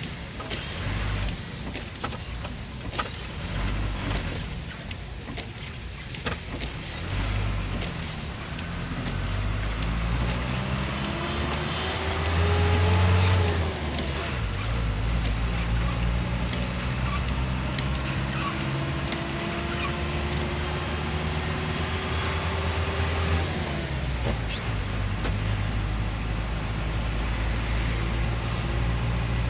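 Road traffic with motor vehicle engines running close by. Twice an engine rises in pitch as a vehicle accelerates: first from about ten seconds in, loudest near thirteen seconds, then a slower, longer climb that drops off about twenty-four seconds in.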